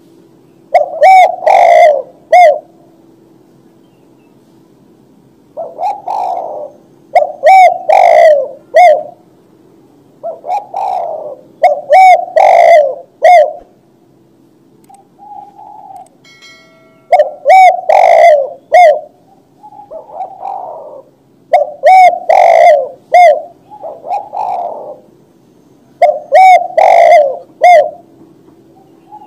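Spotted dove (tekukur) cooing: phrases of three low coo notes repeated every few seconds, loud, over a steady faint hum.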